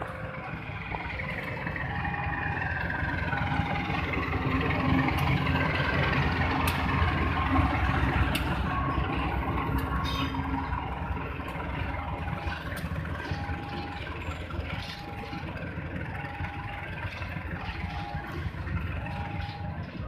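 Passenger train hauled by a diesel-electric locomotive passing close by over a level crossing: a heavy rumble of engine and wheels that builds to its loudest about midway and then eases as the coaches roll past, with sharp clicks of wheels over rail joints. The crossing's warning signal keeps sounding over it, a two-pitch tone repeating about every second and a half.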